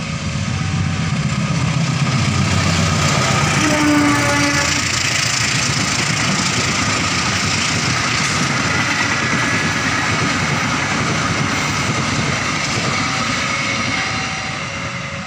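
Passenger train passing at speed close by: a loud, steady rush of wheels on rails and carriage noise, with a short pitched note about four seconds in.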